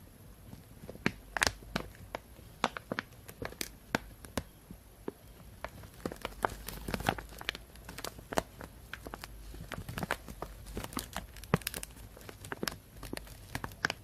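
Plastic bag crinkling and rustling in irregular sharp crackles, some louder than others.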